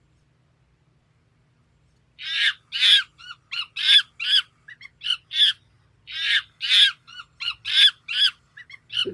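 After about two seconds of near silence, a rapid series of short, harsh squawking calls in two runs, with a brief gap in the middle.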